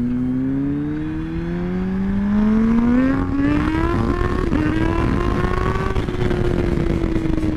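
Sport motorcycle engine under way, rising in revs for about three seconds under acceleration, then holding fairly steady and easing off slightly toward the end, over steady wind and road noise.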